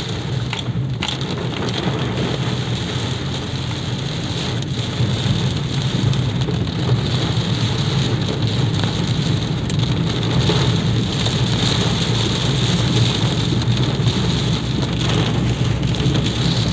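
Rain falling steadily, an even hiss that grows slightly louder about five seconds in.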